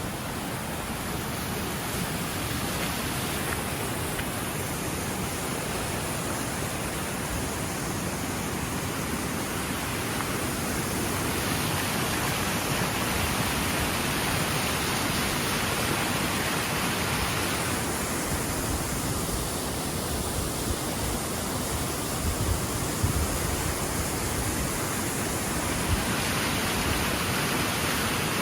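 A flooded creek in spate rushing into a river: a steady, loud roar of fast, churning water. A few low thumps come in the second half, likely wind buffeting the microphone.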